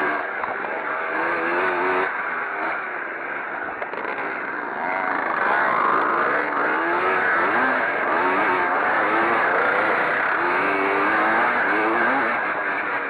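Several classic pre-1965 motocross motorcycles racing, their engines revving up and dropping back over and over as the riders work the throttle, with several engines overlapping.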